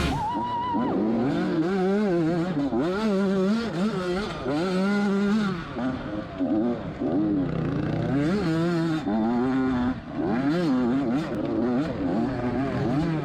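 Two-stroke dirt bike engine revving hard, its pitch climbing and dropping again and again as the throttle is opened and rolled off around the track, with brief lulls about six and ten seconds in.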